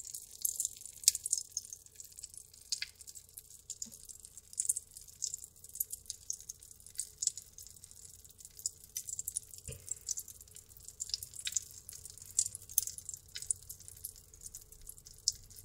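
Pop Rocks candy fizzing and crackling in water inside its bag, a steady run of irregular tiny sharp pops.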